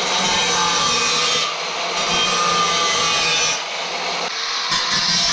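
Power tool cutting sheet metal for a fender patch panel: a steady, loud cutting noise that eases off briefly twice.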